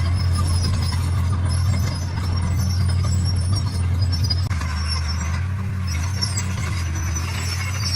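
Komatsu D41 crawler bulldozer's diesel engine running steadily under load, a deep continuous drone with lighter rattling above it, as the dozer spreads base-course stone.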